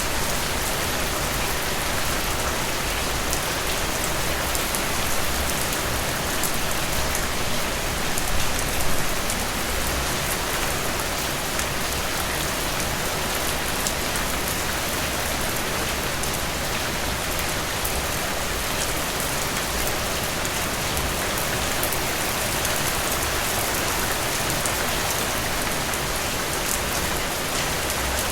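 Steady rain falling through forest trees: a dense, even hiss with many fine drop ticks and a soft low rumble, swelling slightly a few times.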